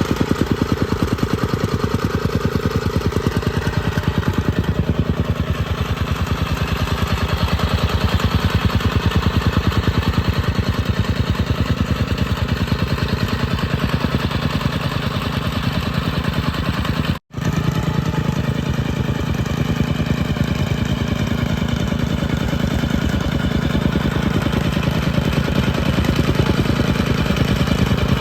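Engine of a homemade compactor running steadily with a fast, even pulse. The sound cuts out for an instant partway through, then carries on.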